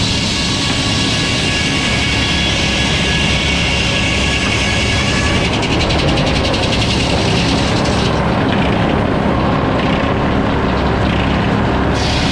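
Sawmill running steadily as it saws a log, with a change in the sound partway through and the high end thinning for a few seconds before returning.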